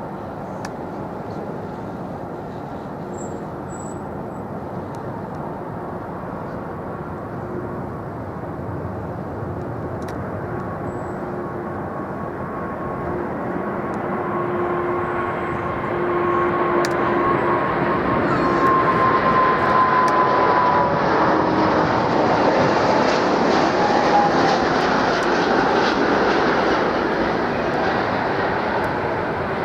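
Jet airliner's engines growing steadily louder as it approaches and passes, with a whine that slides down in pitch as it goes by.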